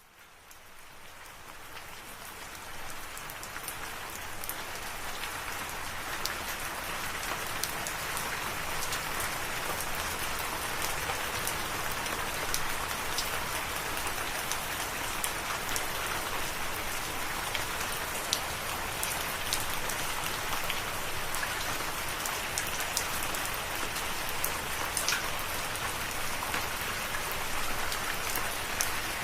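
Steady rain falling, with scattered sharp drop ticks over a dense hiss. It fades in from silence over the first few seconds.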